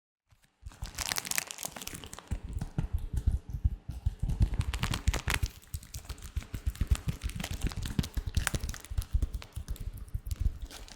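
Latex gloves rubbed and squeezed close to the microphone: dense, rapid crinkling and crackling with low bumps from handling, starting about half a second in.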